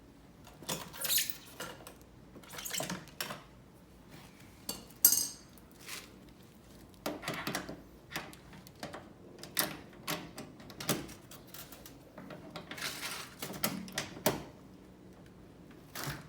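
Metal tools and fittings being handled, clinking and rattling irregularly, with a sharp click about five seconds in.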